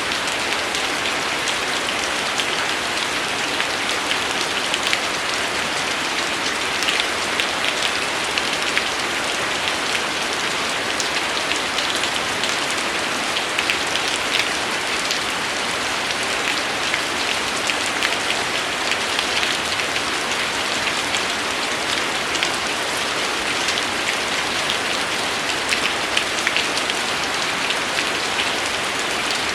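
Steady rain falling on a surface, an even hiss dotted with many sharp individual drop impacts.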